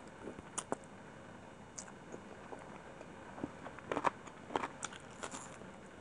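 Close-miked eating sounds of a mouthful of chicken biryani being chewed: wet mouth smacks and short, sharp crackly clicks, busiest about four to five and a half seconds in.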